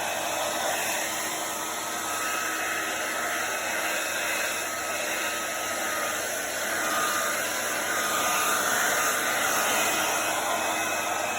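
Hair dryer blowing steadily, a constant rush of air with a faint high whine, growing a little louder in the second half.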